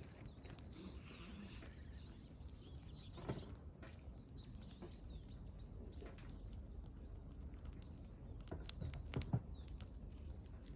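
Firewood burning in an open campfire, crackling with scattered sharp pops, the loudest a little after nine seconds in, while small wild birds chirp in the background.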